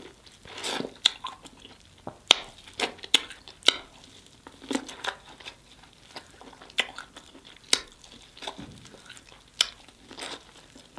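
Close-miked biting and chewing of sauce-coated corn on the cob: irregular sharp clicks and crunches of teeth through the kernels, with mouth smacks.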